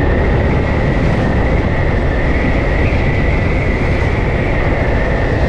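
Yamaha FZ-S V2 motorcycle riding at a slow, steady road speed: the single-cylinder engine running evenly under a heavy, steady wind rush on the microphone, with a faint constant whine.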